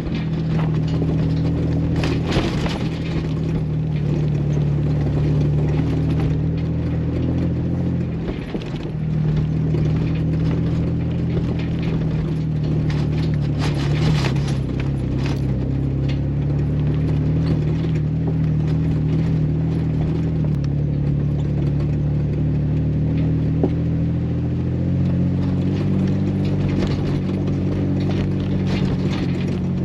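Jeep Wrangler engine running steadily as it drives slowly along a rough gravel road, with occasional knocks and rattles from the ride. The engine note dips and changes pitch briefly about eight seconds in.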